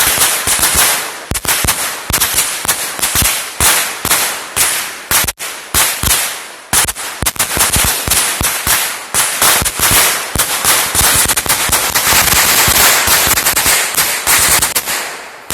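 A long string of firecrackers popping in rapid, irregular succession. The cracks come faster in the second half, merge into a near-continuous crackle, then die out near the end.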